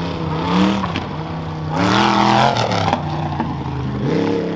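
Modified Chevy S10 rough truck's engine revving hard on a dirt course, its pitch rising and falling as the throttle is worked, with a louder surge about two seconds in.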